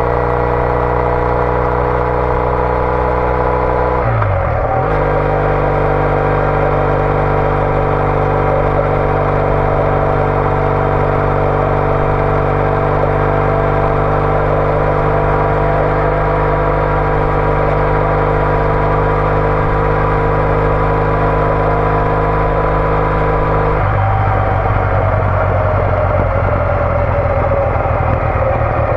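Triumph Bonneville T214's air-cooled parallel-twin engine through an aftermarket TOGA exhaust, ridden on the road. A quick gear change comes about four seconds in; the engine then runs at a steady cruising note, and near the end the throttle is rolled off and the note falls away into a rougher burble.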